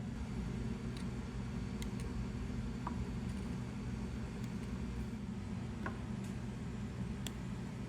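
Steady low machine-shop hum with a few faint, scattered clicks.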